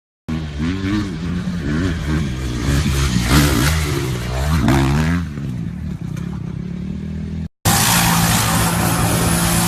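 Motorcycle engine revving up and down several times, then running steadier. After a short break about three-quarters of the way in, an engine runs at a steady pitch under a loud rushing noise.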